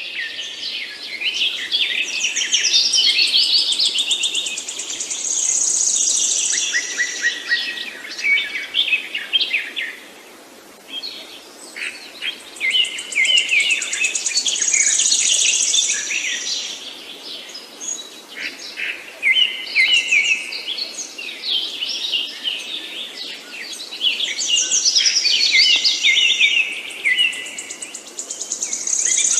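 Songbird singing long, jumbled phrases of quick chirps and trills, coming in three long bouts with brief pauses between them.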